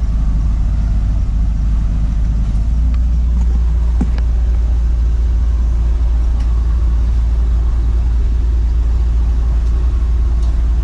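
Perodua Kancil's engine idling with a steady low rumble while the air-conditioning runs; the low hum deepens about two and a half seconds in, and a few light clicks come around a second after that.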